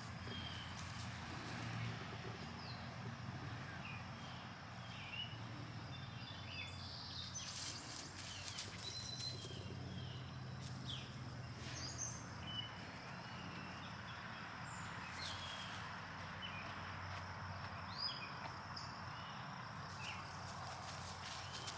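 Outdoor ambience of scattered short bird chirps over a steady background hiss.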